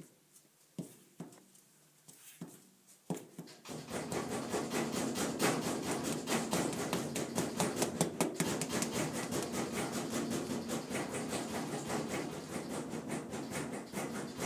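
Household furnace clicking: a few separate clicks, then from about four seconds in a continuous rapid clicking rattle that stops near the end.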